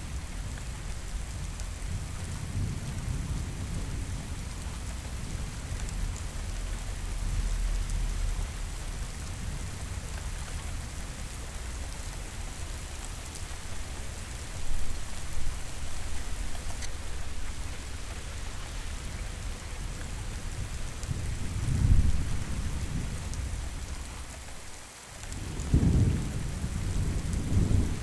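Steady rain falling, with thunder rumbling low underneath and swelling into louder rolls about 15, 22 and 26 seconds in.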